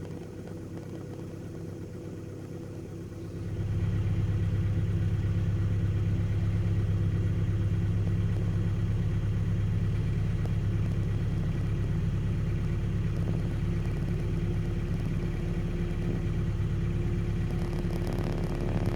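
Vehicle engine idling steadily shortly after a cold start. About three and a half seconds in it gets clearly louder with no change in pitch, holds, and drops back near the end.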